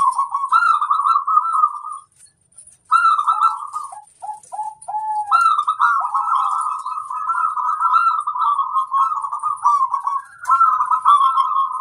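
Zebra doves (perkutut) cooing in long, rolling, trilled phrases, several calls running together. There are short gaps about two and four seconds in, and a few short falling notes around the fourth and fifth second.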